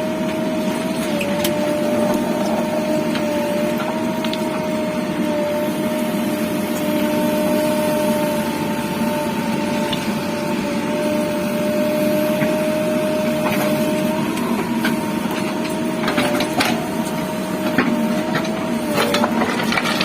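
JCB backhoe loader's diesel engine running steadily under work, with a constant high whine over the engine rumble. Several knocks and clatters come near the end.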